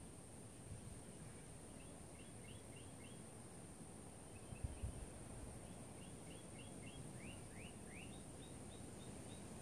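Faint outdoor ambience: a small bird chirps in quick runs of short notes several times, over a low rumble of wind. Two soft thumps come about halfway through.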